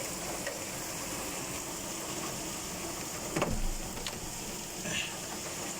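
Heavy rain pouring down in a windy downpour, a steady hiss. A short thump stands out about three and a half seconds in.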